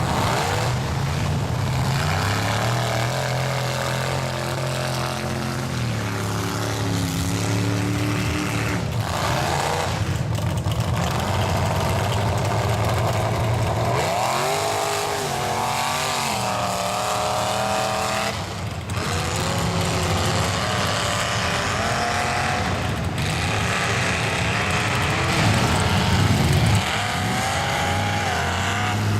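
Chevy mega truck's engine revving hard while working through a mud pit, its pitch climbing and falling again and again, easing off briefly a few times.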